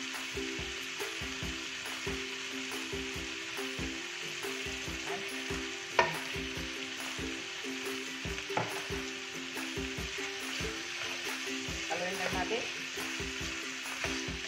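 Chicken and vegetable filling with oyster sauce sizzling in a hot non-stick wok while a spoon stirs and scrapes it, with a steady frying hiss and soft knocks of the spoon. A sharp clink of the spoon against the pan comes about six seconds in.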